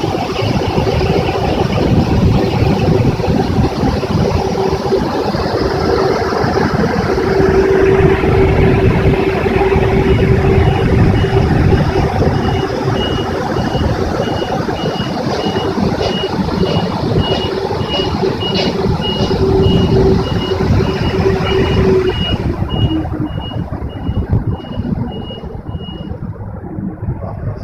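Automatic car wash machine running: a loud rush of machine and wash noise over a steady motor hum. From about a third of the way in, a high warning beep repeats about twice a second. Near the end the hum stops, the noise drops and the beeping ends.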